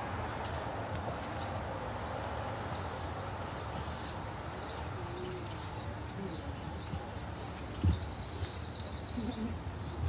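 A small bird chirping over and over, short high chirps about two a second, over a low outdoor murmur with faint voices. A brief low thump about eight seconds in.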